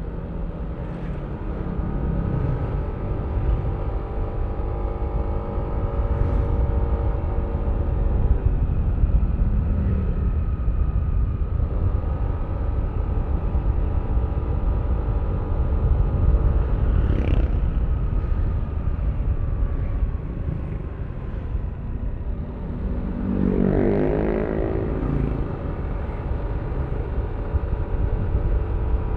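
Yamaha Aerox V3 scooter's 155 cc single-cylinder engine running while riding, its note rising and falling with the throttle over a low rumble. A short, louder rising note stands out a few seconds before the end.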